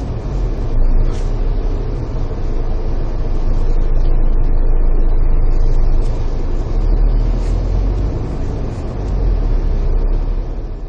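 Steady rumble of a moving car, engine and road noise heavy in the low end, with no distinct impact.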